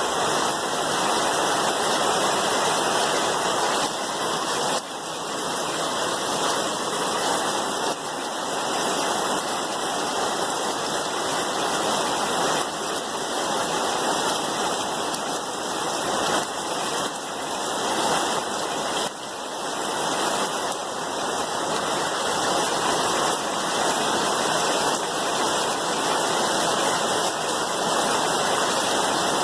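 Rain falling steadily, a dense even hiss that swells and dips slightly in level.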